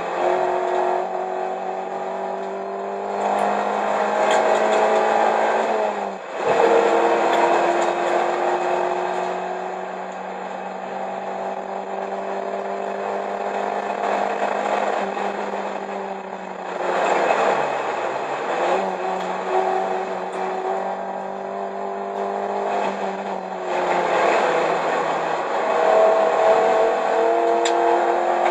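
1995 Plymouth Neon ACR's 2.0-litre SOHC four-cylinder engine heard from inside the cabin, running hard under load with revs rising and falling. The revs drop sharply about six seconds in and again around seventeen seconds in, then climb again near the end.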